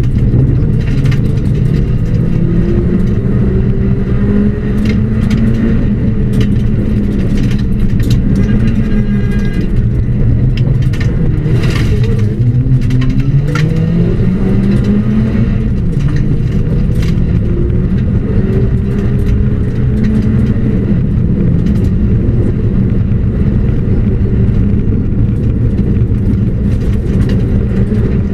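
Ford Puma rally car's engine from inside the cabin, driven hard along a stage, its pitch rising and falling with throttle and gear changes, dropping about twelve seconds in and climbing again soon after. Scattered sharp clicks and knocks from the car run through it.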